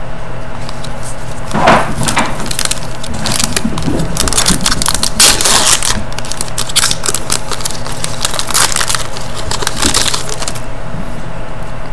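Crinkling and rustling of trading-card packaging and cards being handled, in dense irregular crackles that die away near the end.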